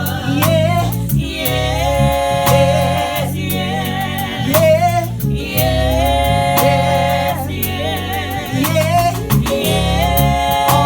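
Gospel music: a singer's long, wavering held notes without clear words over a bass line and steady drum beats.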